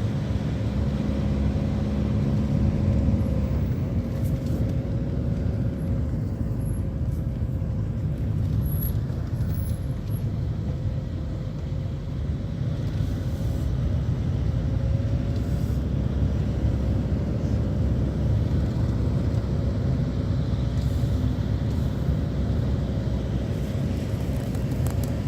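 Car driving: a steady low rumble of engine and road noise, with a faint engine tone that drifts slowly up and down in pitch.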